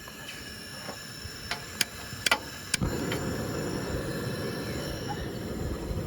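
Gas camp stove being lit: a few sharp igniter clicks, then the burner catches about three seconds in with a steady low rush of flame.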